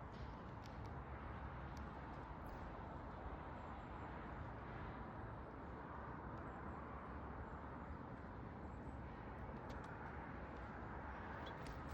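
Backyard outdoor ambience: a steady low rumble, with a few faint, short, high chirps and clicks from small birds at a feeder, mostly near the start and near the end.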